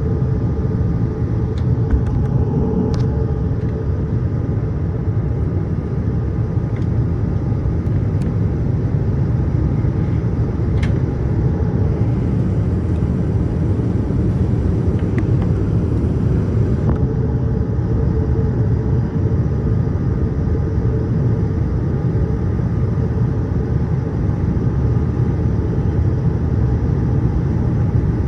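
Steady low rumble of a Boeing 787-8 airliner in flight, its engines and airflow heard as continuous cabin noise, with a few faint ticks.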